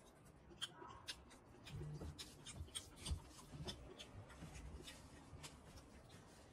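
Faint close-up eating sounds: a man chewing, with a run of small wet mouth clicks and smacks and a few soft low bumps in the middle, as he eats curry and rice by hand.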